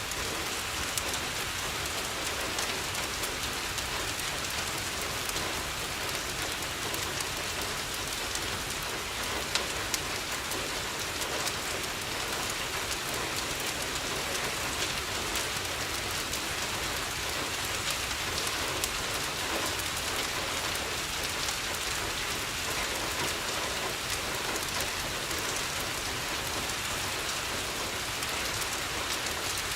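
Steady rain on a window, with scattered small pops and crackles from a wood fireplace. Two sharper pops come about ten seconds in.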